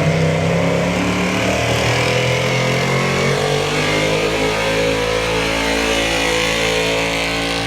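1976 Ford pulling truck's engine running hard under full load as it drags the weight sled down the track, its pitch climbing gently over the first few seconds and then holding steady.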